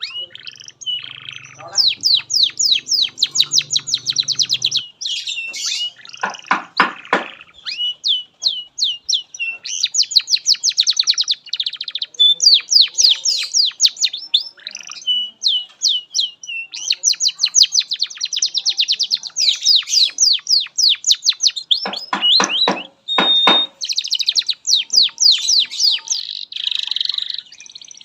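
Domestic canary singing a long, unbroken song of very fast trills and rolled phrases, high-pitched throughout. Twice, about six and twenty-two seconds in, it drops into a harsh, buzzy roll that reaches much lower in pitch.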